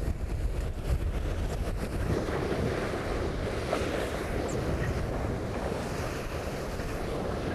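Steady rush of wind buffeting the microphone over water hissing and splashing past the hulls of a catamaran sailing fast in strong wind.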